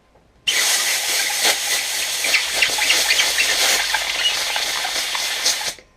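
Compressed air hissing in one continuous blast of about five seconds, blowing dust out of an upright vacuum cleaner's filter from its clean side. It starts abruptly about half a second in and cuts off near the end.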